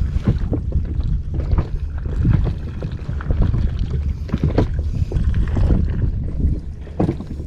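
Sea water lapping and slapping irregularly against the hull of a small inflatable boat, over a steady low wind rumble on the microphone.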